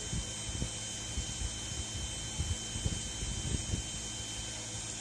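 Irregular light clicks and taps of small objects being handled on a work surface, over a steady background hiss.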